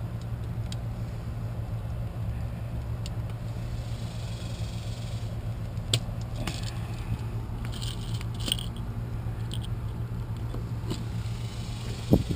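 Steady low hum with scattered light clicks, scrapes and small metallic jingles from handling tools and outlet hardware, and a sharper knock near the end.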